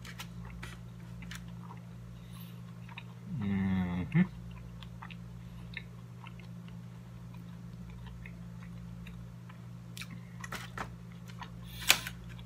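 A person chewing a mouthful of burrito close to the microphone, with small wet clicks and smacks over a steady low hum. There is a short hum of the voice about three and a half seconds in, and a sharp click or bite near the end.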